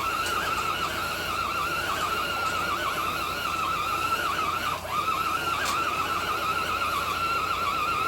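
Electric motor and gears of an Axial Bomber RC rock-crawler whining under load as it drags a weighted pulling sled on a chain. The high whine wavers quickly up and down with the throttle and dips briefly about five seconds in.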